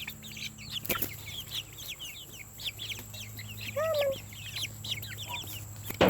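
Many chicks peeping together: a dense, continuous run of short, high, downward-sliding chirps. One lower call stands out about four seconds in, and a sharp knock sounds about a second in.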